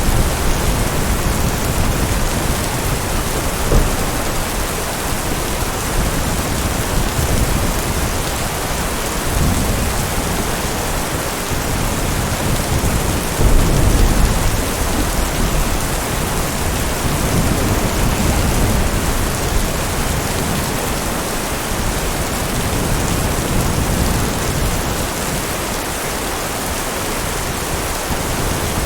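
Steady heavy rain with low rolling thunder rumbling underneath, swelling loudest about halfway through.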